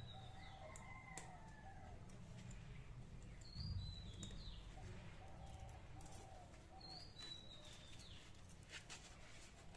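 Faint bird calls: a short, high, falling chirp repeating about every three and a half seconds, over a low background rumble with a few light clicks.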